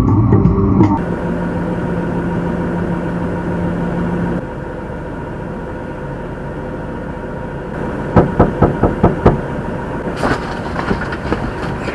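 Truck engine running with a steady low hum; about eight seconds in, a quick run of about half a dozen sharp knocks on the truck cab, then a few lighter clicks and bumps.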